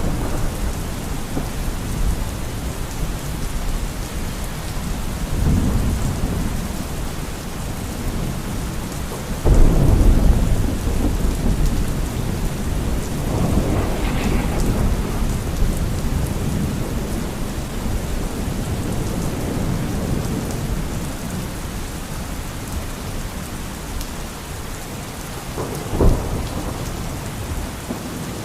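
Steady rain with rolling thunder: low rumbles about 5 seconds in, a loud one about 9 seconds in and another around 14 seconds, then a short, sharp thunder crack near the end.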